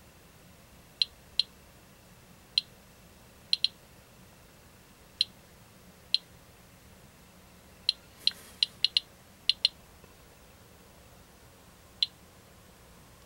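Radiation Alert Inspector Geiger counter clicking at random intervals, about fifteen sharp clicks, with a quick cluster around the middle. Each click is one detected count, at about 54 counts per minute, from the counter resting on matcha green tea powder that the tester holds responsible for counts above background.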